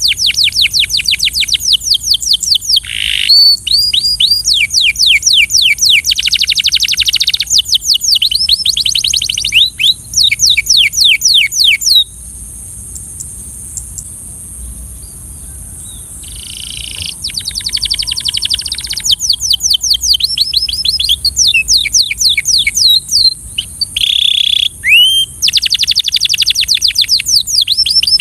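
Canary singing in long, rapid trills of quickly falling high notes, in phrases broken by a pause of a few seconds about halfway through.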